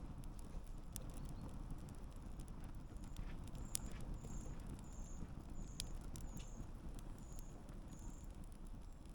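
Wood campfire burning with a steady low rumble and scattered sharp crackles and pops. Through the middle, a faint high chirp repeats about three times every two seconds.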